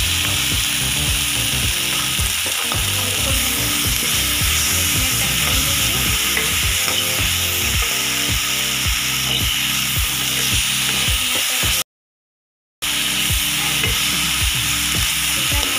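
Grated tomato and green chilli frying in hot oil with browned onions in a kadai: a steady, loud sizzle, with the steel skimmer scraping and knocking against the pan as it stirs. The sound cuts out for about a second near the end.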